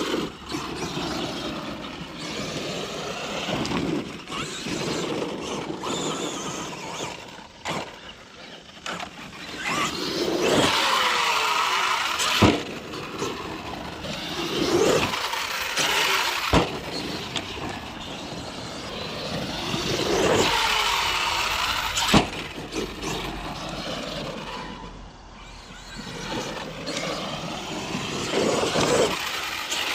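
Arrma Outcast 8S 1/5-scale electric RC stunt truck running on a dirt track: its brushless motor whine rises and falls again and again as the throttle is punched and released, with a few sharp knocks of the truck landing or hitting the ground.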